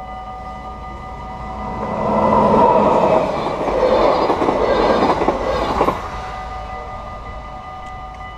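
An NS DD-AR double-deck train passing over the level crossing, building from about two seconds in and cutting off abruptly about six seconds in as the last car clears. The crossing's warning bells ring steadily under it.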